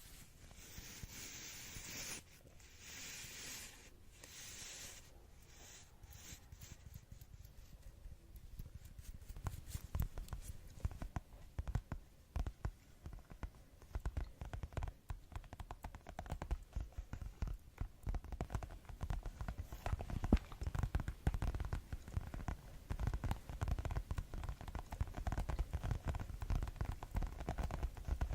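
ASMR fast tapping with fingers: soft scratching and rubbing for the first several seconds, then rapid, dense tapping that grows louder and keeps on to the end.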